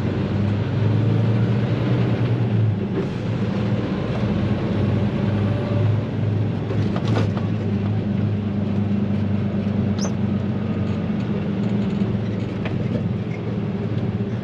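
Truck engine running with a steady low drone, heard from inside the cab while driving, with a sharp click about halfway through and a fainter one a few seconds later.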